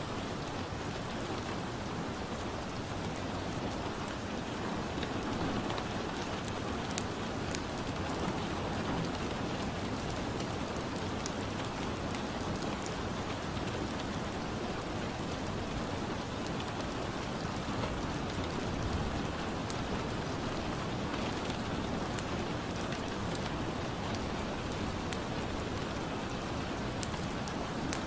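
Steady rain ambience with a crackling wood fire: an even rain hiss with scattered sharp crackles.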